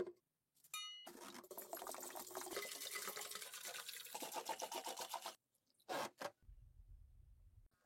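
Rust being scraped off an old sword's blade: a dense run of quick scraping strokes lasting about four seconds. Near the end comes a short burst, then a low hum.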